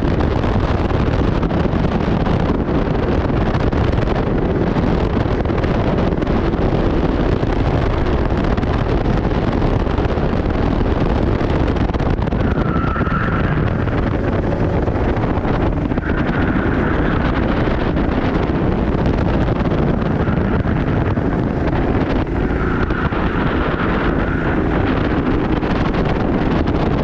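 Steady, loud wind noise on the microphone with a racing kart's engine running underneath.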